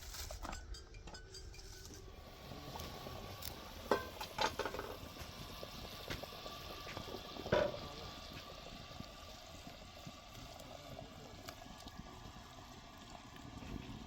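A few light clinks of a utensil against a cooking pot: two about four seconds in and a louder one near eight seconds, over a faint steady background.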